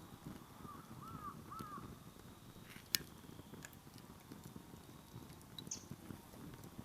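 Wood campfire burning: a low steady rush of flame with scattered crackles of firewood and one sharp pop about three seconds in.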